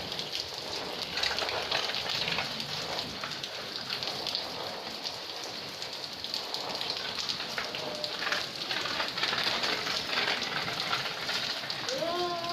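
Steady rain falling, a dense hiss of drops pattering and splashing on surfaces.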